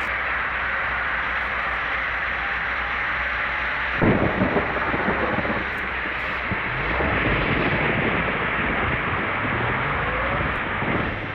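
Mitsubishi L300 driving in heavy rain: a steady hiss of rain and wet road over a low engine drone. About four seconds in, a louder, wavering sound joins.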